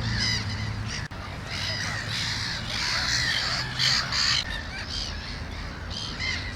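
Crows cawing, many calls overlapping, over a steady low hum.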